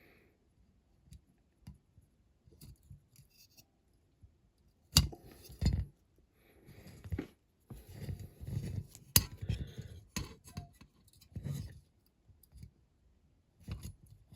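Small hard parts clicking and rubbing as a die-cast model is handled and trimmed with cutters, with sharp clicks about five and nine seconds in.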